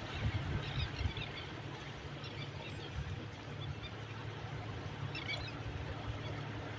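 Coastal ambience: a steady wash of sea with small birds chirping in short clusters about a second in, around two and a half seconds and near five seconds, over a low steady hum.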